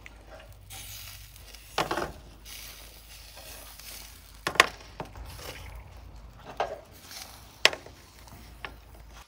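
Beef liver sizzling over heat, a steady hiss, with four sharp clinks or knocks of utensils spread through it.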